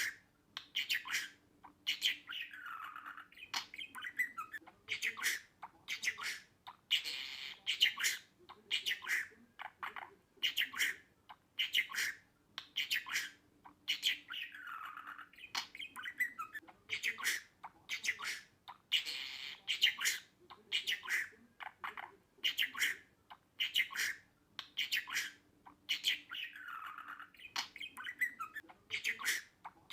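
Budgerigar warbling and chattering: a continuous stream of rapid short chirps and squawks.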